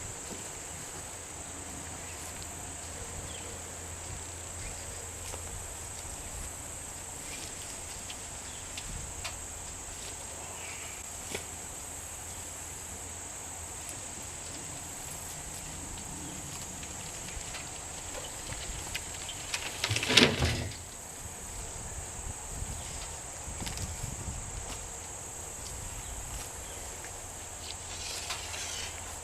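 Insects buzzing steadily in a high, even drone. About twenty seconds in, a short, louder noise cuts across it.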